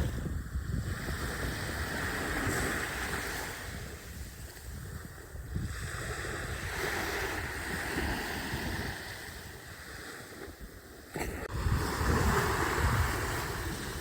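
Waves washing ashore in repeated swells every few seconds, with wind rumbling on the microphone; a louder surge comes in about eleven seconds in.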